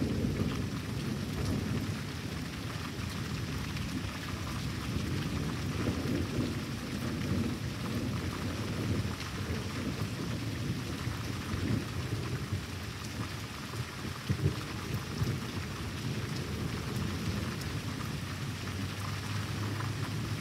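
Steady rain falling, with deep rolling thunder rumbling under it, loudest at the start and easing off over the first couple of seconds.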